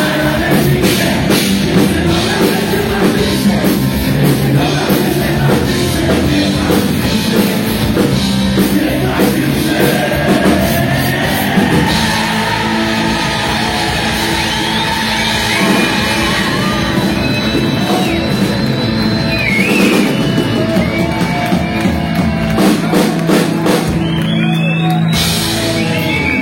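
Rock music with drums and singing. About halfway through the drums thin out, leaving held chords under the voice.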